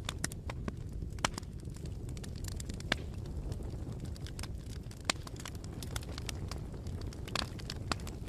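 Bonfire crackling: a steady low rumble of burning wood with irregular sharp pops and snaps, a few of them louder than the rest.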